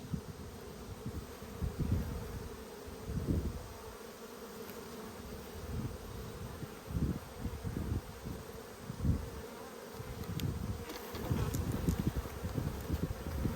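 Honeybees buzzing around an open Langstroth hive: a steady hum of many bees, with intermittent low rumbles and bumps throughout.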